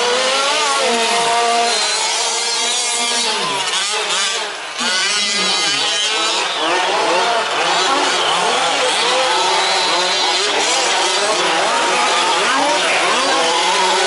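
Several 1/5-scale remote-control trucks racing at once, their small two-stroke petrol engines revving up and down over one another. The sound dips briefly about four and a half seconds in.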